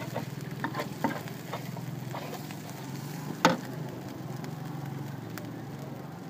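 Eggs frying in oil in a large wok, with a metal spatula scraping and clicking against the pan and a steady low hum underneath. One sharp clink of the spatula on the wok comes about halfway through.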